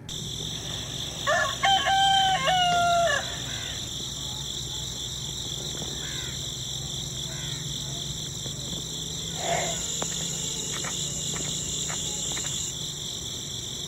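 A rooster crows once, a second or so in, loud and drawn out. Under it and after it runs a steady high-pitched drone of insects, with a few faint chirps and ticks later on.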